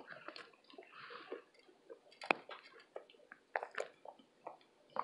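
Close-miked chewing of baked cornstarch from a burnt KB cornstarch brick: irregular crunches and crackles, the loudest a sharp crack a little over two seconds in.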